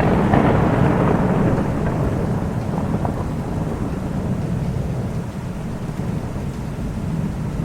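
Thunder rumbling over steady rain, loudest in the first couple of seconds and then settling into a continuous low rumble and rain hiss.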